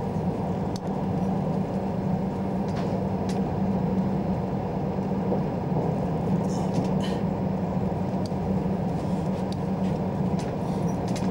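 Steady running noise of a passenger train heard from inside the car: an even low rumble with a constant hum.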